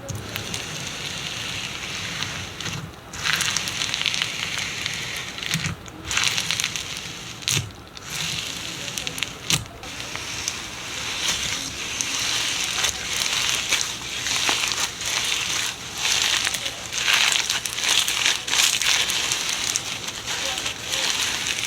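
Slime being worked and stretched, with a continuous dense crackling of small bubble pops that comes in louder flurries.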